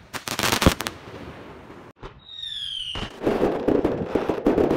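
Fireworks: a quick cluster of sharp bangs at the start, a short whistle dropping in pitch about two seconds in, then a loud spell of dense crackling.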